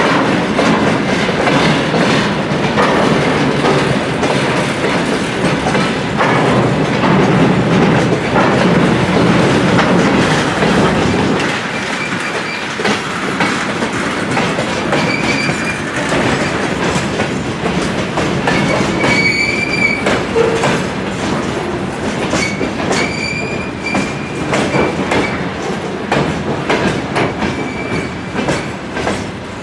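A train rolling past, its wheels clattering over rail joints. The heavy rumble eases after about eleven seconds, and high wheel squeals sound several times in the second half.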